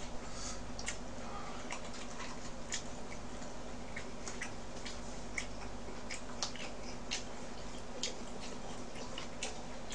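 Person chewing a mouthful of beef bulgogi: scattered soft clicks and mouth noises over a steady low hum.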